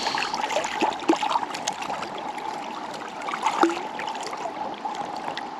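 Shallow river water running and trickling, with irregular small splashes and clicks from a hooked brown trout fighting on the line.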